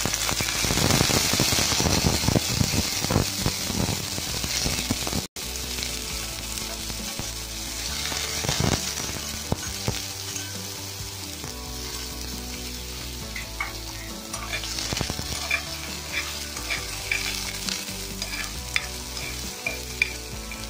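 Chana dal and peanuts sizzling in hot oil in a kadhai, loudest in the first few seconds as the dal hits the oil, with the sound breaking off for an instant about five seconds in. Later the sizzle settles lower while a spatula stirs the lentils, scraping and clicking against the pan.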